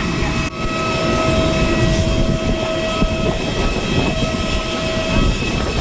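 Jet airliner noise: a steady loud rush with a high whine held on several steady tones, briefly dipping about half a second in.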